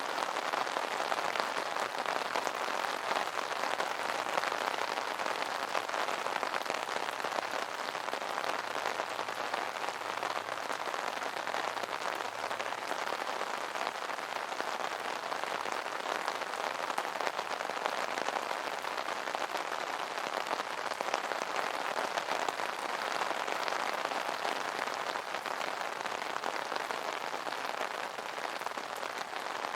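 Steady rain pattering on an umbrella's fabric canopy, a dense patter of many small drop hits.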